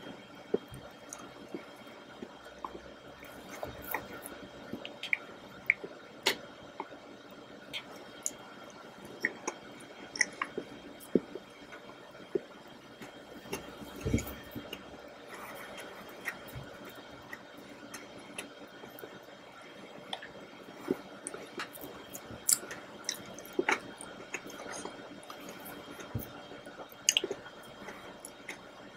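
Close-miked wet mouth sounds of someone eating chocolate raspberry mousse cake: soft chewing, lip smacks and small moist clicks, irregular and several a second, over a faint steady hum.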